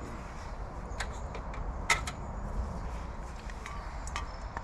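A few sharp knocks and clicks from gear being handled and unpacked, the loudest about two seconds in, over a steady low rumble.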